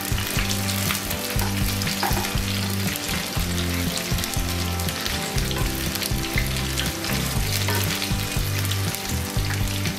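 Halved brinjal pieces shallow-frying in hot oil in a nonstick wok, a steady sizzle and crackle, with the scraping of wooden spatulas as the pieces are turned. The brinjal is nearly done frying.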